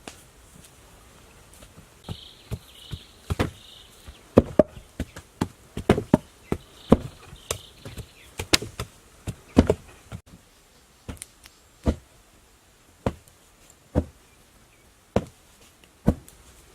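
A series of sharp wooden knocks: a quick, irregular flurry of blows, then single knocks at a steady pace of about one a second, as if wood is being struck with a tool.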